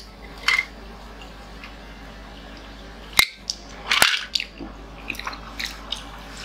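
Close-miked mouth sounds of eating chicken nuggets: chewing and lip smacks, with a few sharp clicks, the loudest about three and four seconds in.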